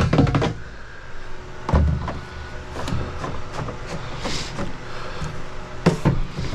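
A series of irregular knocks and clanks, with a heavier thump and low rumble about two seconds in, over a steady low mechanical hum.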